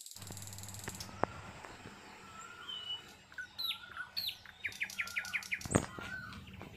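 Songbirds chirping and calling in short whistled notes, with a quick run of about six falling notes around five seconds in. A single sharp knock near the end stands out as the loudest sound.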